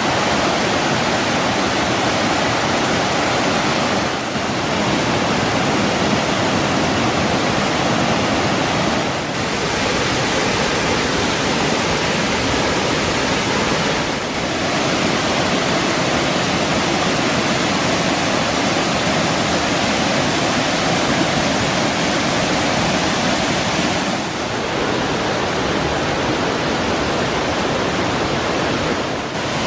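River waterfall rushing in a loud, steady roar of falling water, dipping briefly a few times.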